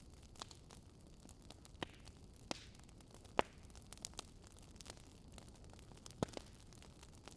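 Wood fire crackling at a low level: a faint steady hiss broken by sharp, irregular pops, the loudest about three and a half seconds in and another just after six seconds.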